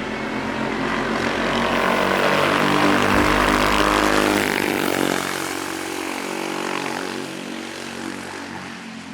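Racing kart engine passing by: the engine grows louder as it approaches, drops in pitch as it goes past about halfway through, then fades away.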